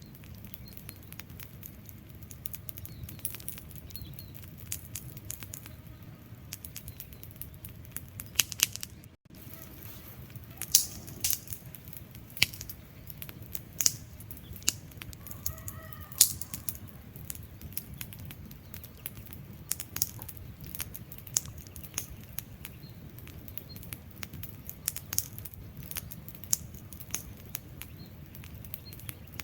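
Wood fire burning, with irregular crackles and sharp pops from the logs over a low steady rumble of flames. The loudest pops come about eleven and sixteen seconds in, and the sound drops out for a moment about nine seconds in.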